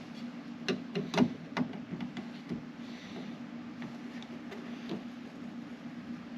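A handful of sharp clicks and knocks, most of them between about one and one and a half seconds in, with a few fainter ones later: hand work on a car door while a side mirror is fitted and screwed down. A steady low hum runs underneath.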